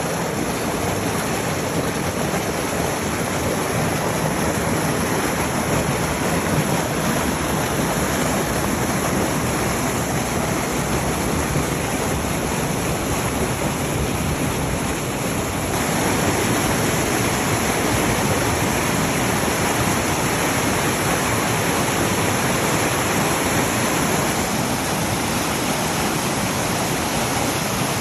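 Rushing flash-flood torrent: a steady noise of fast-running water that gets a little louder about 16 seconds in.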